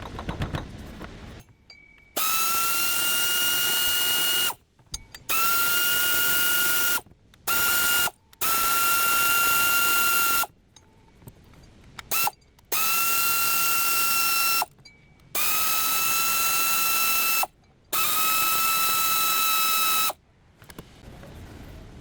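A handheld power tool run in about eight bursts, each a high whine that rises briefly as the motor spins up and then holds steady before cutting off; the pattern of a tool spinning bolts in or out.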